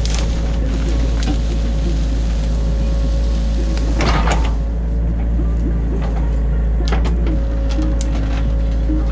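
Inside the cab of a New Holland E50.2 mini excavator: the diesel engine and hydraulics run steadily under load while digging, with a low drone and a steady whine. A sharp clank about four seconds in and lighter knocks near the end come from the working machine.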